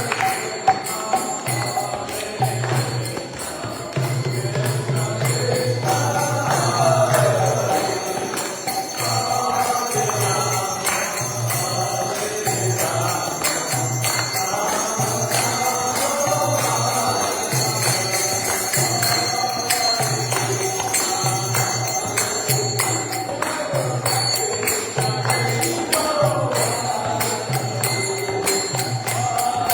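Kirtan: a group chanting a devotional song, with jingling hand cymbals over a steady pulsing beat.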